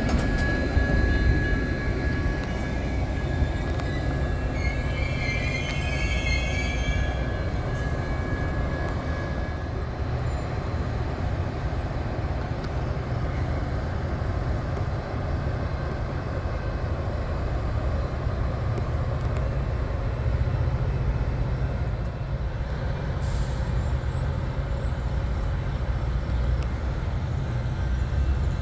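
A train rolling past: a steady low rumble of wheels on rail, with a brief wavering wheel squeal about five to seven seconds in.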